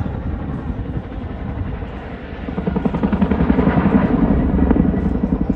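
Boeing CH-47 Chinook tandem-rotor helicopter's rotor blades beating in rapid, even pulses. It grows louder about two and a half seconds in and eases slightly near the end.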